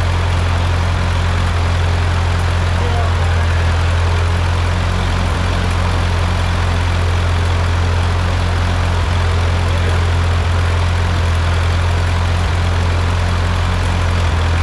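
Freshly rebuilt Ford 8N tractor's four-cylinder flathead engine idling steadily at an even, low pitch.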